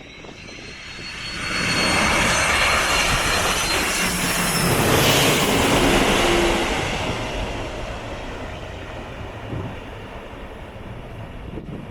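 Airbus A320 jet airliner passing low overhead on its landing approach: the engine noise swells to a loud rush with a high whine that slides down in pitch, holds for a few seconds, then slowly fades as it moves away.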